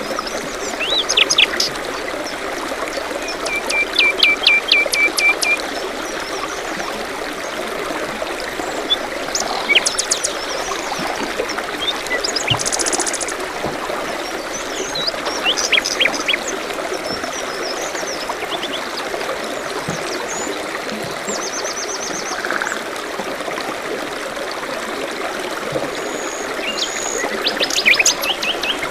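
Water trickling steadily, like a small forest stream, with songbirds chirping over it. There is a quick run of about eight repeated notes about four seconds in and a cluster of chirps near the end.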